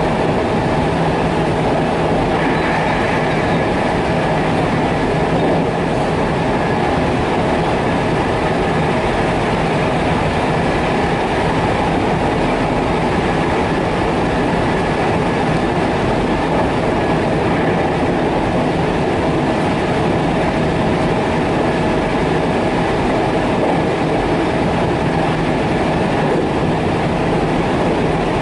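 Electric commuter train of the JR Tokaido Line New Rapid Service running steadily at speed, heard from its front cab: an even rumble of wheels on rail with a steady low hum and a higher hum over it. A brighter, higher ring joins about two seconds in and holds.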